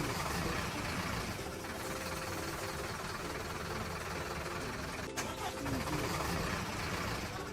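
Animated construction vehicle's engine sound effect, running steadily with a low rumble. A sharp click comes about five seconds in.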